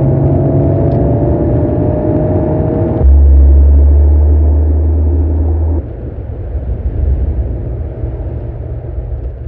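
Mercedes-AMG CLE 53's 3.0-litre turbocharged inline-six engine and exhaust sound, edited into three takes that cut abruptly about three seconds in and again near six seconds. The first take has a slightly rising pitch, the middle one is a loud, deep, steady drone, and the last is rougher and uneven.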